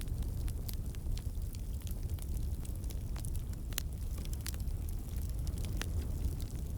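Campfire burning: a steady low rumble of flames with sharp, irregular crackles and pops of burning wood.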